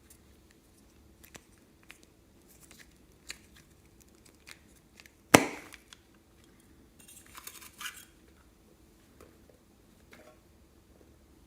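Close-up slime-handling sounds: scattered small clicks and crackles, one loud sharp snap about five seconds in, and a short crinkly rustle a couple of seconds later.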